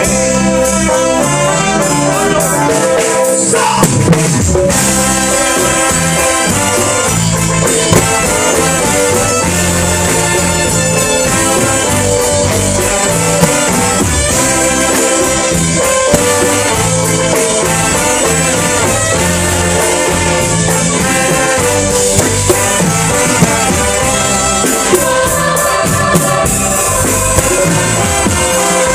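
Mexican banda music: a brass band with trumpets and trombones playing an instrumental passage over a steady beat.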